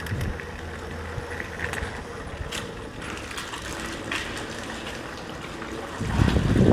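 Talaria electric dirt bike rolling slowly through water: tyres splashing, with chain and drivetrain rattle and scattered clicks. A louder rush comes near the end.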